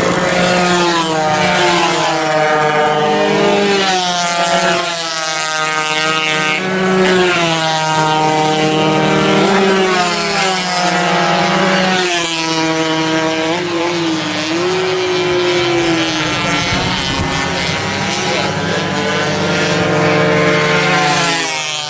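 Several two-stroke 120cc racing motorcycles running hard, their engine notes climbing and dropping again and again as they shift gears and pass, more than one bike heard at once.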